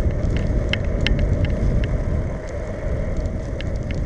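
A bicycle ride heard from the bike: a steady low rumble of wind on the microphone and tyres on the road, with scattered light clicks and rattles coming several times a second.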